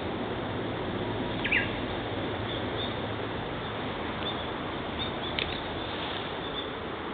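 Japanese bush warbler (uguisu) giving short, high call notes: a brief pair about a second and a half in, another sharp note after about five seconds, and fainter chirps in between, over a steady background hiss.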